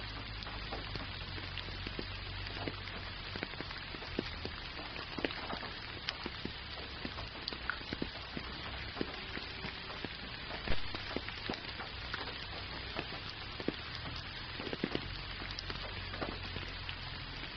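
Gentle rain falling: a steady hiss with many separate drops ticking close by, one a little louder about eleven seconds in.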